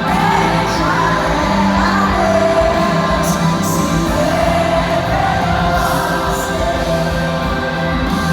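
Live gospel music: a band playing sustained chords under a singing voice that holds long, wavering notes.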